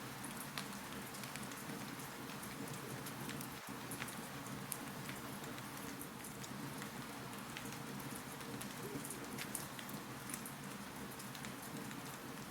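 Wood fire crackling in a fireplace: a steady soft hiss with sharp irregular pops and snaps several times a second.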